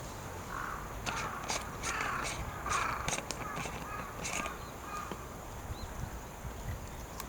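A crow cawing several times in the first half, harsh calls over the sharp pops and crackle of a wood fire.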